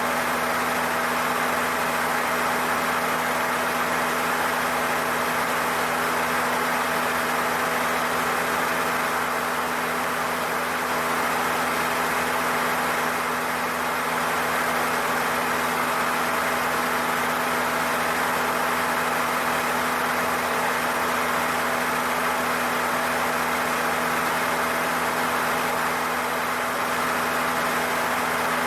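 Cessna 152's four-cylinder Lycoming engine and propeller droning at a steady power setting in flight, heard inside the cabin, with a constant hum and rushing noise that does not change.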